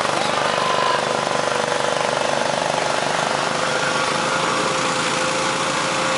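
Small lawn tractor engines running steadily under load, with people's voices faintly in the background.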